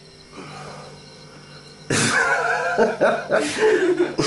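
A man's loud wordless cries and yelps, starting about two seconds in and running on in several bursts, in fright at a large spider coming at him. A low steady hum lies underneath.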